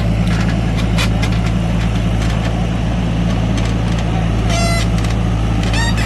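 Heavy diesel engine running steadily at a constant speed, a loud low drone. Two brief high-pitched squeals come near the end.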